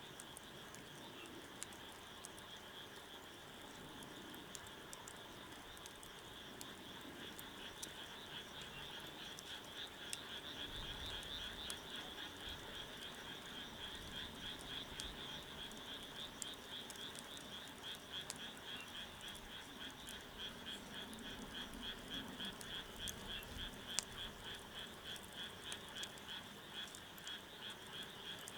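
Wood fire crackling with scattered sharp pops, the loudest about 24 seconds in, over a steady, rapidly pulsing high-pitched chorus of calling animals that grows louder after the first several seconds.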